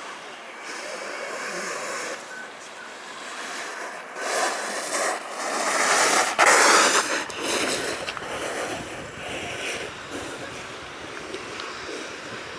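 Rushing noise of riding an alpine snowboard down the slope: wind on the microphone and the board sliding over the surface, swelling to its loudest about halfway through and then easing.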